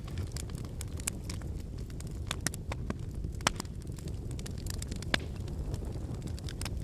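Campfire burning: a steady low rumble of flames with irregular sharp crackles and pops from the firewood, two of them louder, near the middle and about five seconds in.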